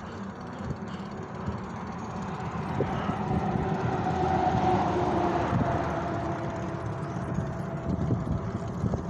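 A motor vehicle passing: its engine and tyre sound build up, peak about halfway through with the pitch dropping slightly, and fade again, over the steady rush of wind and riding noise.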